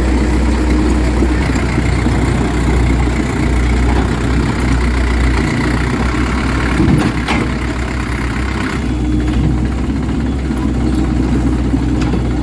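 Dump truck engine idling steadily, with a short knock about seven seconds in.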